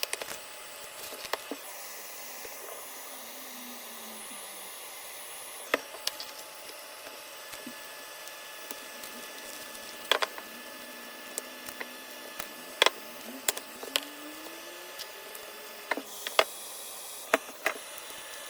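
Hot air gun blowing with a steady hiss while it heats the iPad's glued battery to soften the adhesive. Scattered sharp clicks and taps of tools handling the device sound over it.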